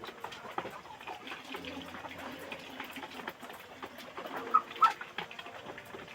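Flock of kampung chickens murmuring and clucking, with two short, loud calls about four and a half seconds in.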